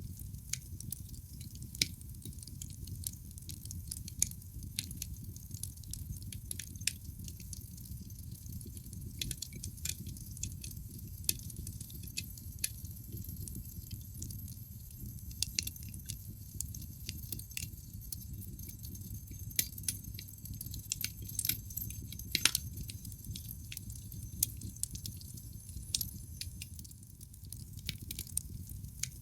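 Wood fire in a fireplace crackling: logs burning with a steady low rumble of flame and frequent sharp pops and snaps, one louder pop about two-thirds of the way through.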